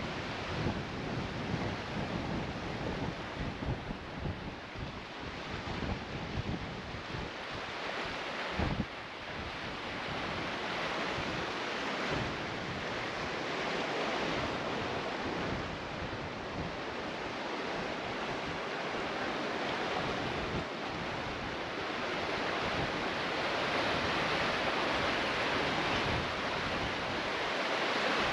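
Wind buffeting the microphone in gusts over a steady rush of water, which grows louder toward the end.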